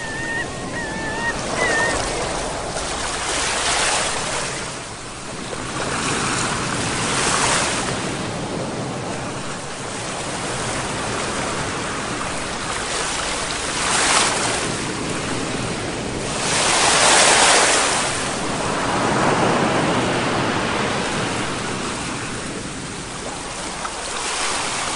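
Sea waves breaking and washing ashore in repeated swells a few seconds apart, the biggest surge about two-thirds of the way through.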